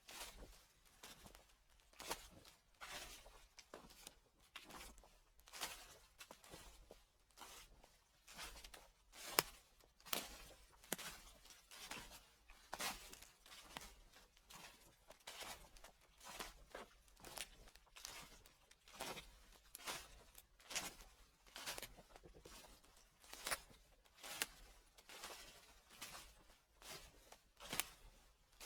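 Footsteps crunching through fallen leaves at a steady walking pace, about one step every three-quarters of a second.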